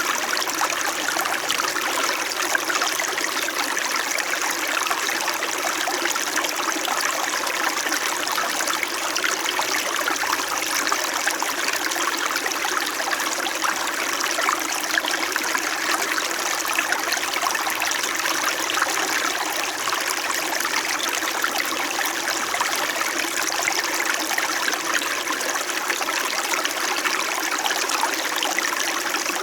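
Small winter mountain stream flowing and burbling over stones, a steady, even rush of water.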